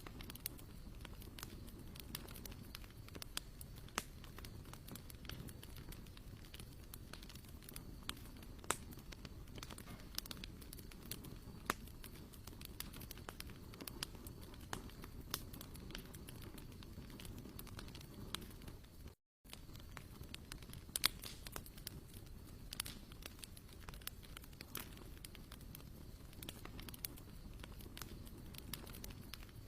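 Wood campfire crackling, with irregular sharp pops over a low steady rumble of the flames. A brief gap cuts the sound about two-thirds of the way through.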